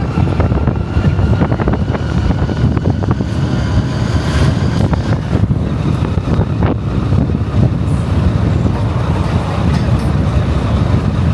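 Motorcycle engine running steadily while riding, a dense low rumble without break.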